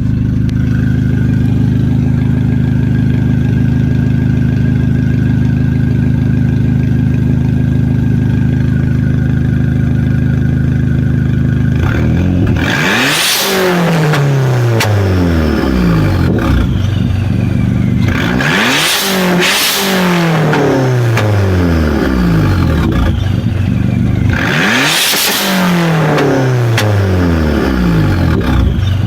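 Dodge SRT-4's turbocharged 2.4-litre four-cylinder idling steadily, then blipped three times about six seconds apart. Each rev brings a sharp noisy burst, and the engine note falls back to idle with a high whine winding down.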